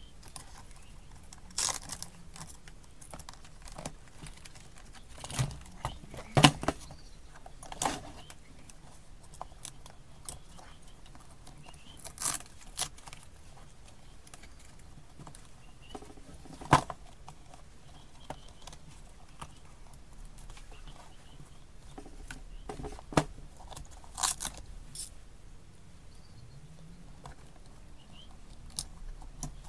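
Pieces of a tool kit being handled: irregular clicks, clinks and rattles of tools and their plastic holders, with a few sharper knocks.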